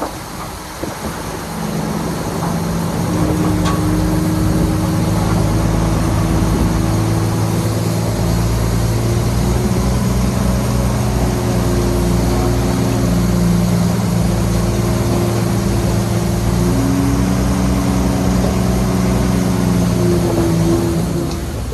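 Shantui bulldozer's diesel engine running steadily under load, coming up in pitch about a second in and then holding, with small shifts in engine speed near the end.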